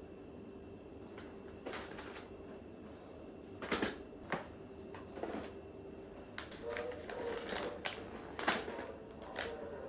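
Irregular light clicks and knocks of household objects being handled and set down, coming thicker in the second half, with a few short squeaks mixed in.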